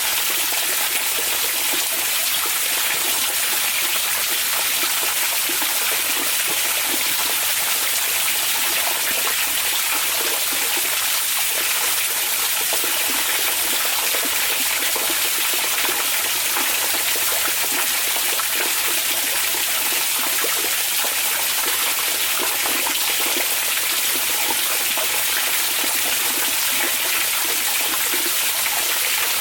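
Hot spring water flowing steadily into an onsen bath, an even, unbroken rushing trickle.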